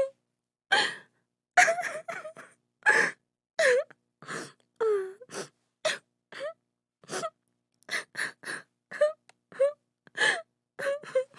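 A woman crying: short gasping sobs and wavering wails, roughly two a second, with silence between each.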